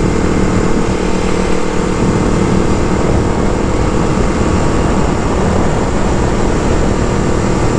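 Motorcycle cruising at a steady speed: steady engine hum under heavy wind rush on the rider's microphone.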